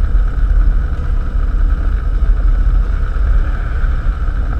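Cessna 172's piston engine idling steadily on the ground.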